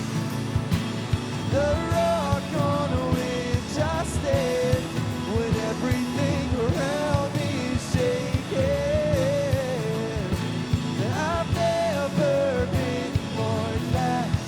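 Live worship band music in a rock style: a sung melody over a full band with drums keeping a steady beat.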